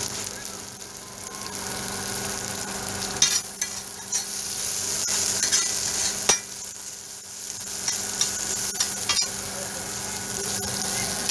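Mole crabs with onion and curry leaves sizzling on a flat tawa griddle while a metal spatula stirs and scrapes them, with several sharp clicks of the spatula hitting the griddle through the middle of the stretch.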